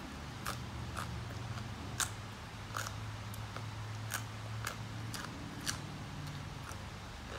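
Close-up chewing of raw vegetables: a string of sharp, crisp crunches at an irregular pace of one or two a second, the loudest about two seconds in, over a steady low hum.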